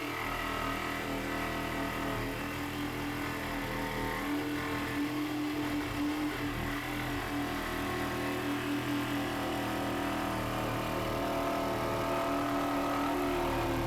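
Electric power tool motor running steadily with a continuous hum whose pitch holds nearly level and shifts slightly near the end.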